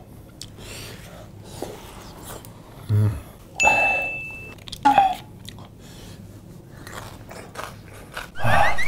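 Close chewing and wet mouth sounds of a person eating tteokbokki rice cakes, with small clicks throughout. A few brief louder noises come a third to halfway in, one of them a short steady high beep.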